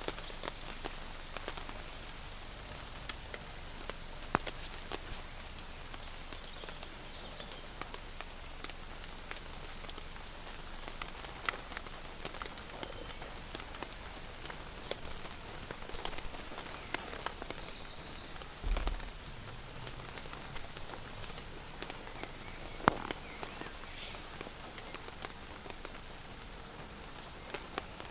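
Steady rain falling, with many separate drop hits on top of an even hiss. Faint short high chirps sound now and then, and there is one dull low thump about two-thirds of the way through.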